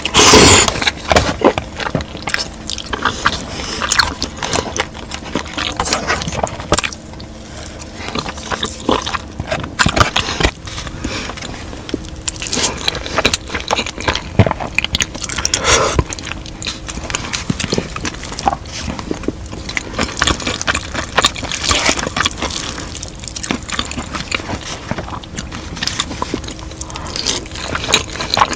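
Close-miked eating: big bites and chewing with wet mouth noises and crackling clicks, the loudest a burst right at the start.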